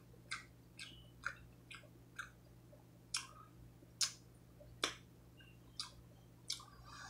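A person chewing soft, cheesy chicken and broccoli close to the microphone, with short wet mouth clicks and lip smacks about every half second. The loudest come a little after three and four seconds in.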